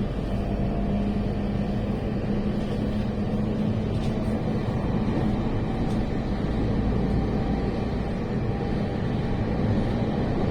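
Passenger train running, heard from inside the carriage: a steady low rumble, with a hum that fades out about halfway through.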